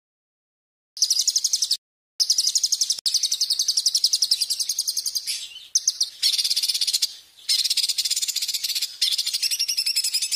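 A songbird sings rapid, high-pitched trills of very fast repeated notes. The trills come in phrases broken by abrupt short silences, beginning about a second in.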